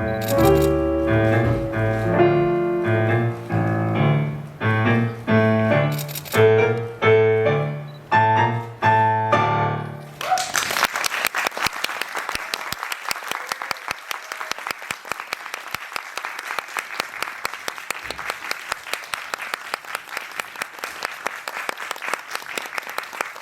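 A piano plays a run of struck chords for about ten seconds. Then the music stops and an audience breaks into steady applause.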